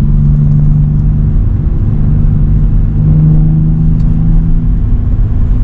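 Car engine and exhaust droning steadily at low revs while the car rolls slowly along, the pitch shifting slightly a couple of times.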